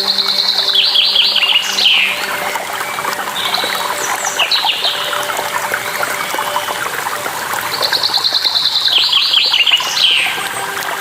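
A songbird singing runs of rapid high notes, once near the start and again about eight seconds in, with shorter calls between, over the steady rush of falling water.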